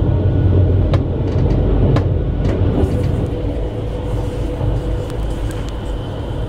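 Steady rumble of a high-speed train running on the track, heard from inside the carriage, with two sharp clicks about one and two seconds in. The rumble eases slightly about halfway through.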